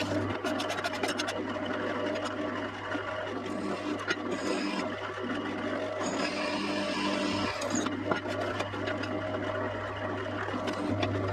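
Electric drill running steadily while boring 8 mm holes in a metal rail, the cutting hiss swelling and fading as the bit is pressed in and eased off, with a few clicks about a second in.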